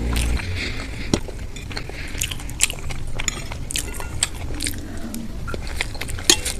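Close-miked eating: biting and chewing with a run of sharp mouth clicks and smacks.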